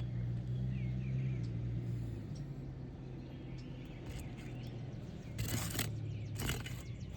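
Two short scrapes about five and a half and six and a half seconds in, from work loosening and prying up asphalt roof shingles, over a low steady hum that fades after the first couple of seconds. A bird chirps briefly near two seconds in.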